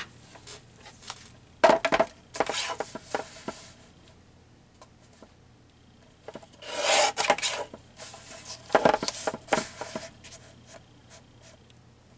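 Paper trimmer and paper being handled on a craft table: a sharp knock about two seconds in, then several bursts of paper rustling and scraping as the paper is lined up on the trimmer.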